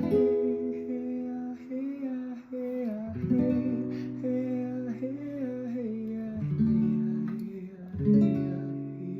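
Strummed acoustic guitar with a voice singing a wordless melody over it, the sung notes held and sliding between pitches.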